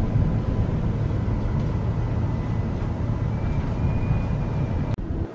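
Cabin noise inside a Queensland Rail NGR electric train: a steady low rumble, with a faint high whine in the second half. It cuts off abruptly with a click near the end.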